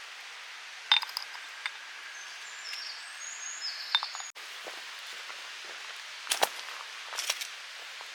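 A few light clinks and knocks, as of camp cookware being handled, about a second in, near the middle and twice near the end, over a steady outdoor background hiss.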